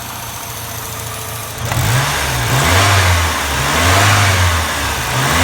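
Saab 900 Commemorative Edition's turbocharged four-cylinder engine running, heard at the engine bay. It idles steadily at first, then from nearly two seconds in it is revved up and down in several blips.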